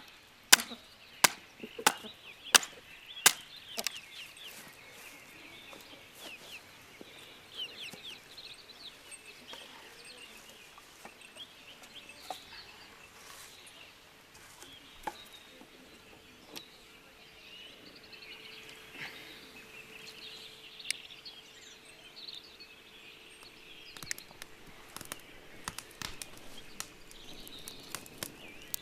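Five sharp chopping strokes at an even pace, about one and a half a second, in the first few seconds, followed by birds chirping and singing with occasional faint knocks.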